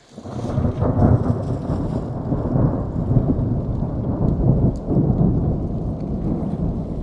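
Thunder rumbling: it starts suddenly and rolls on, loud and low-pitched, swelling and easing without a break.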